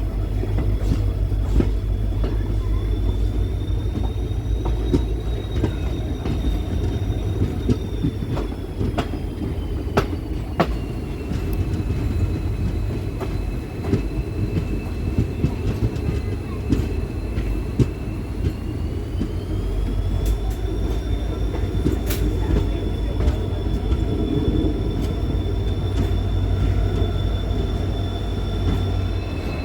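Train running on the rails: a steady low rumble with scattered clicks from the rail joints. Over it runs a high, drawn-out wheel squeal whose pitch sinks slowly through the middle and climbs again later.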